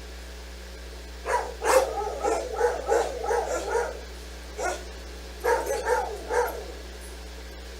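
A dog barking in bouts: a quick string of barks, a single bark, then another short string.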